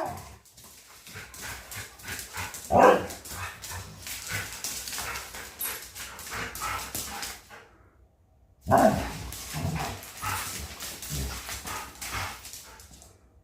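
Huskies making short whining, barking calls, about three seconds in and again near nine seconds, among scattered clicks and shuffling. The dogs are impatient and expect their routine to start.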